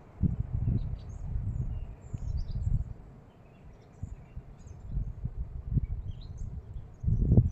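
Faint high bird chirps scattered over a low rumbling noise that rises and falls in gusts, swelling about a second in and again near the end.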